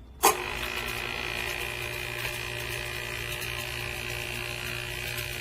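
Sink food waste disposer switched on: a sharp start about a quarter second in, then its motor running with a steady hum and a higher whine.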